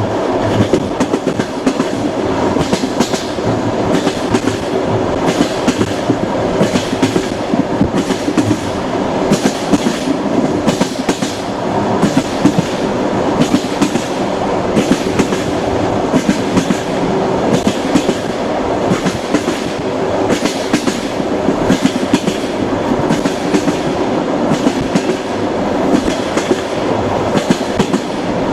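Train rolling along the track: a steady rumble with a repeated clickety-clack of wheels over the rails.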